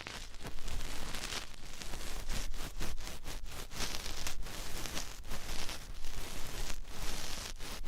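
Close-miked ASMR ear-cleaning sounds: tools scraping and rustling against an ear microphone, giving a constant crackling, fluttering scratch with brighter hissy swells.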